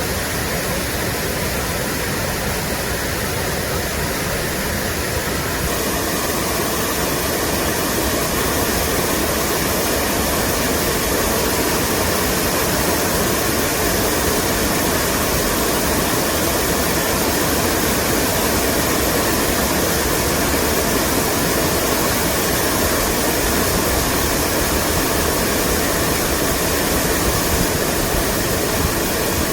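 Mountain valley stream rushing steadily over rocks, a dense unbroken wash of water noise that grows slightly louder and brighter about six seconds in.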